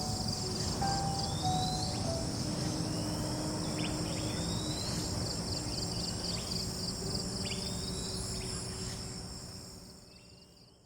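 Rainforest insect chorus trilling steadily, with short rising chirps and soft held music notes underneath; it all fades out about ten seconds in.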